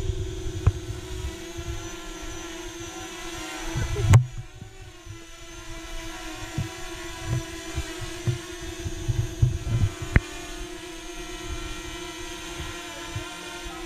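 Parrot Anafi quadcopter drone's propellers humming steadily in a high whine, with low buffeting on the microphone and a sharp knock about four seconds in.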